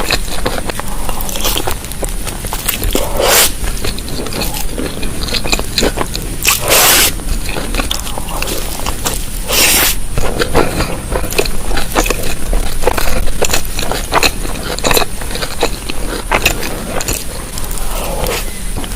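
Close-miked eating of boiled eggs in chili sauce: wet chewing and biting sounds with many small mouth clicks and scrapes. Several louder half-second noisy bursts stand out, about three seconds apart.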